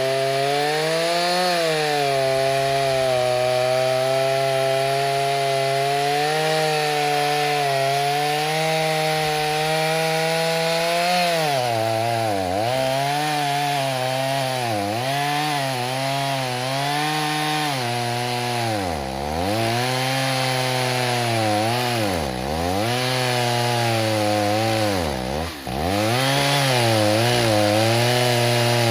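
Stihl 029 two-stroke chainsaw, rebuilt with a 45mm cylinder, running flat out and cutting wood. For the first ten seconds or so the engine note holds high and steady. After that it is pulled down again and again as the chain loads up in the cut and then recovers, with the deepest drop a little before the end.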